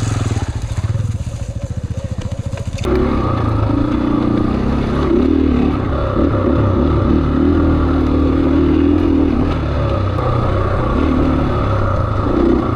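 KTM 500 EXC-F single-cylinder four-stroke dirt bike engine running, getting louder about three seconds in and then holding steady.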